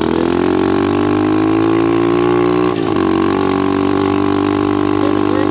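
Single-cylinder four-stroke engine of an SSR 125 pit bike running steadily, its pitch easing slightly lower, with a brief dip about three seconds in before it settles at an even note.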